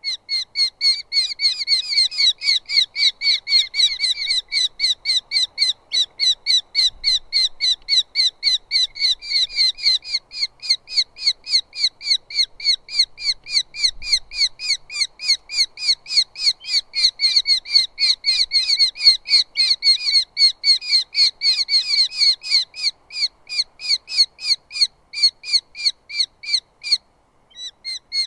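Eurasian hobby calling: a long, rapid series of short, high, repeated notes, about three or four a second, that breaks off briefly near the end and then starts again.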